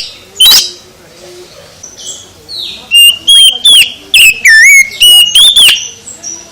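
Oriental magpie-robin singing: loud, varied whistled notes that swoop up and down. One phrase comes near the start, softer twittering follows, and a quick run of loud whistles starts about three seconds in.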